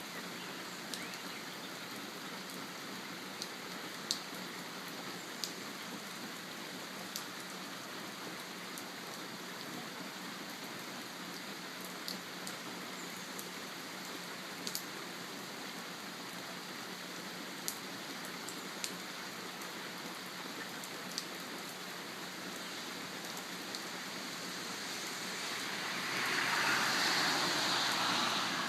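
Steady rain falling, with scattered sharp ticks of single drops striking something close by. Near the end a louder hiss swells up over the rain.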